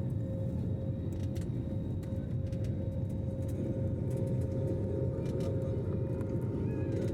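Aeroplane engines during takeoff: a steady low drone with a constant whine held above it, and a few faint ticks.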